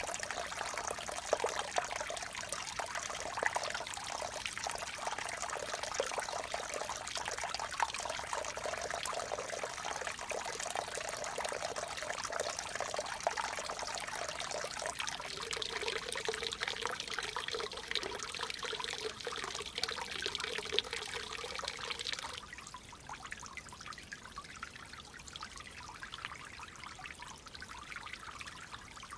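Clear water flowing steadily. About 22 seconds in it drops abruptly to a quieter, softer flow.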